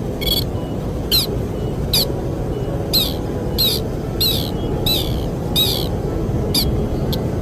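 A bird the uploader names as the sintar calls with a series of short, sharp, falling chirps, about one a second and about ten in all, over a steady low rush of wind.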